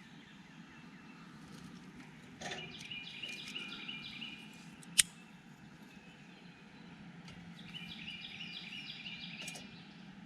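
A songbird singing two runs of quick, evenly repeated high notes, one about two and a half seconds in and one near the end. A single sharp snap about five seconds in is the loudest sound.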